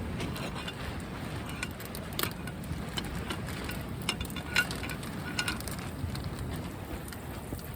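Strong wind buffeting the microphone with a steady low rumble, with scattered small crackles and clicks over it, the sharpest about halfway through.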